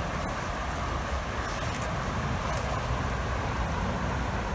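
Steady rushing noise of a fast-flowing river current, with an uneven low rumble underneath.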